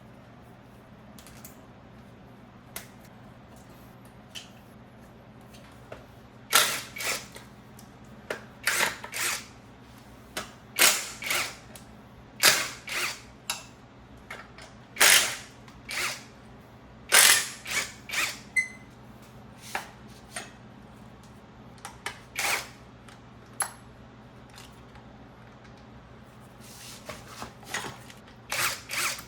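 Handheld power drill/driver run in a dozen or so short bursts, often two or three in quick succession, starting about six seconds in, over a steady low hum.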